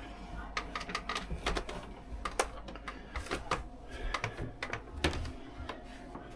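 Irregular light clicks and knocks, a few every second, as someone picks their way down a yacht's interior stairs: footfalls and handling noise over a low steady hum.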